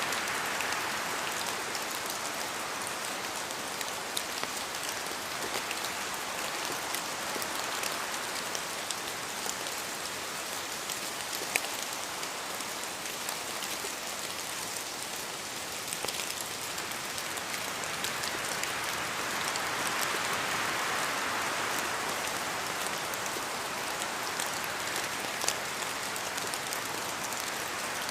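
Steady rain falling in a forest, with many single drops ticking close by. The wash of rain and wind swells and eases about two-thirds of the way through.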